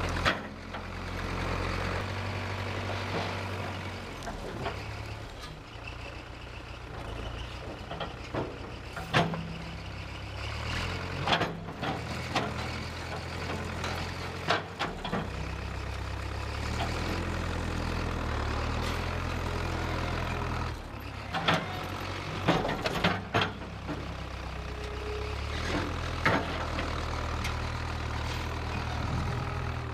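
Engine of a 1968 Case backhoe running steadily, its note shifting up and down as it works. Sharp metallic clanks and knocks come at intervals, with a cluster of them a little past two-thirds of the way through.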